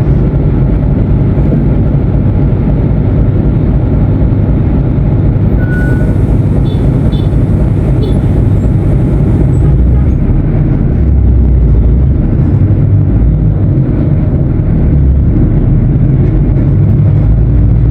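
Diesel engine of a Mercedes-Benz OF-1519 BlueTec 5 bus running under way: a loud, steady low drone that deepens and swells for a couple of seconds about ten seconds in.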